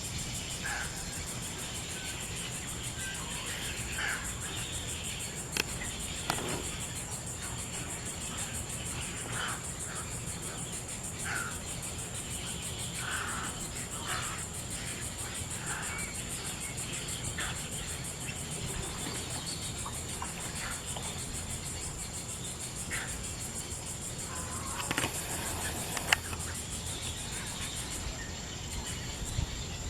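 Outdoor ambience: short bird calls every second or two over a steady, high-pitched insect drone, with a couple of sharp single knocks, one about five seconds in and one near the end.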